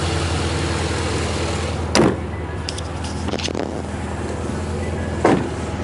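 2007 Corvette's V8 idling steadily through its Borla exhaust, with two dull thumps, one about two seconds in and one near the end.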